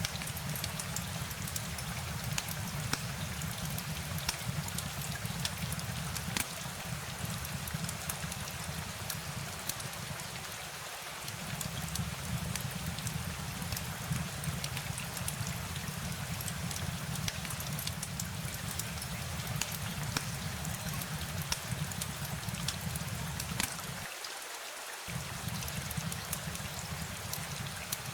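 Steady rain falling, a continuous hiss with many sharp drop ticks over a low rumble; the rumble cuts out briefly twice.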